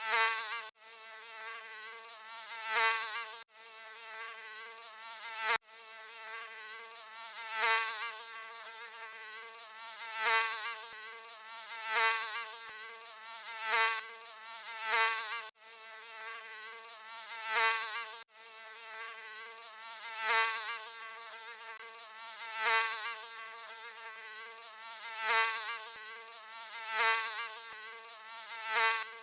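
Mosquito wingbeat whine, a high, wavering buzz that swells louder about every two seconds as if the insect passes close, with a few brief gaps.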